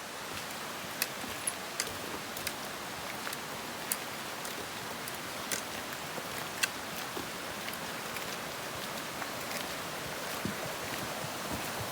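Forest waterfall rushing steadily, with many scattered sharp clicks over the rush.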